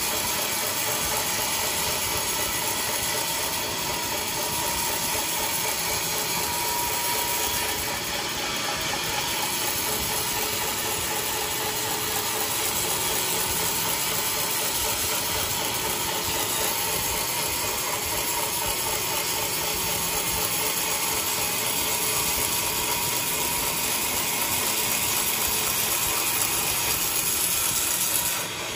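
Sawmill machinery running steadily while sawing a coconut log, a continuous loud mechanical noise with a hissing edge that cuts off abruptly at the end.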